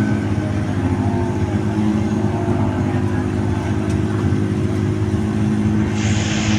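Rally car engine running at a steady, held pitch at the start line.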